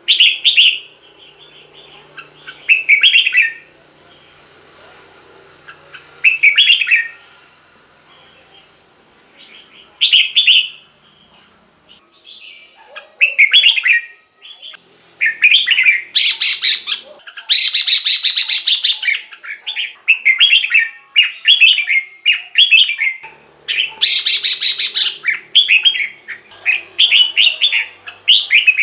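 Red-whiskered bulbul singing short, loud warbled phrases, a few seconds apart at first, then coming in quick succession from about halfway, with two louder, harsher stretches.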